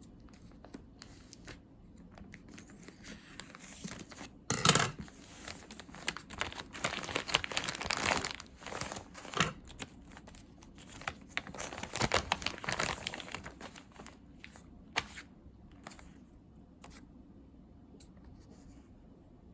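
Crinkling and rustling of a bag or wrapping being handled, in irregular bursts, with a short sharp tearing sound about four and a half seconds in.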